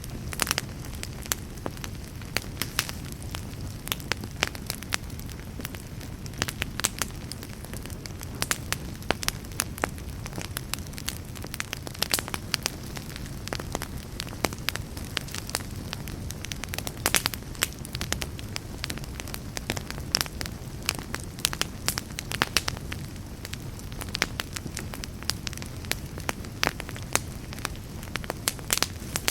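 Fireplace fire crackling, with frequent sharp pops over a low, steady rumble of the flames.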